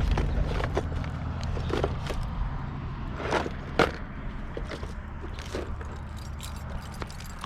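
Scattered clicks and light rattles over a steady low rumble, with two sharper knocks about three and a half seconds in.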